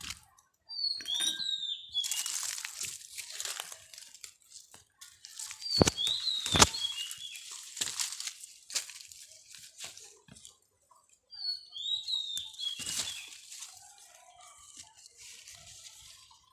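Rustling and crackling, like leaves and stems being handled, with a few short bird chirps and two sharp clicks about six seconds in.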